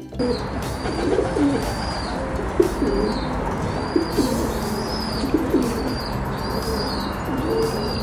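Rock pigeons cooing: low, wavering coos repeated and overlapping over a steady background hiss, with faint high chirps recurring about once a second.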